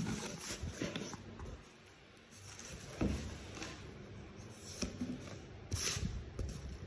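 Handling noises from unpacking: a few light knocks and clicks with soft rustling in between, loudest about three seconds in and again near six seconds.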